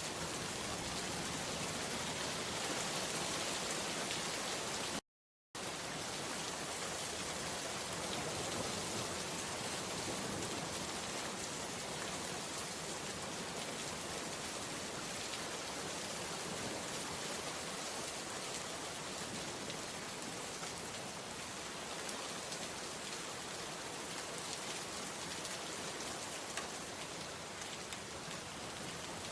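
Steady rain falling, an even hiss of many drops, which cuts out to dead silence for about half a second around five seconds in.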